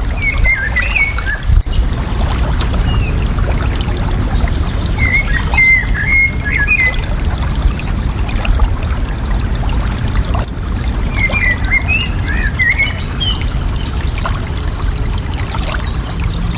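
Steady rush of flowing water, with a songbird singing a short warbled phrase that repeats about every five seconds.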